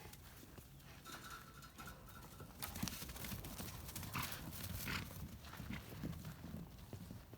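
Miniature donkeys' hooves thudding on the ground as they run, an irregular patter of hoofbeats that grows louder and busier about two and a half seconds in.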